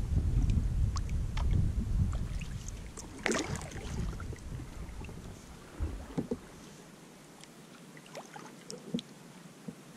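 Kayak paddling on a river: scattered drips and small splashes from the paddle in the water. Wind rumbles on the microphone and dies away about two-thirds of the way through.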